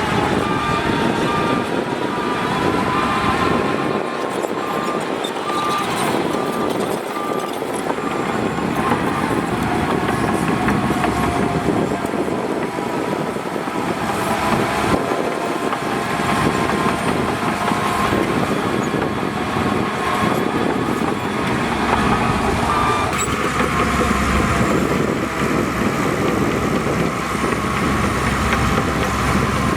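Heavy diesel earthmoving machinery running steadily under load, with a whining tone that wavers in pitch. A reversing alarm beeps briefly at the start.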